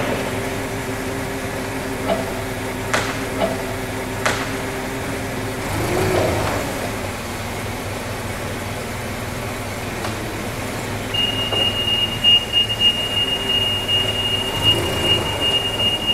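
Knocks and scraping as a large subwoofer enclosure is worked loose and slid out of an SUV's cargo area, growing busier and louder in the second half. A steady high tone starts about two thirds of the way in and keeps sounding.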